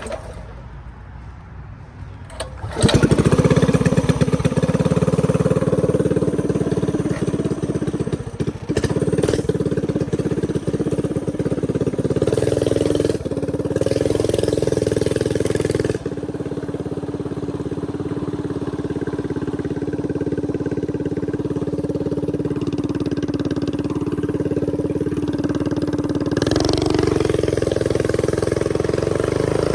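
A stretched mini bike's small engine, quiet at first, comes in suddenly and loudly about three seconds in and then runs steadily under way, easing off a little past the middle and picking up again near the end.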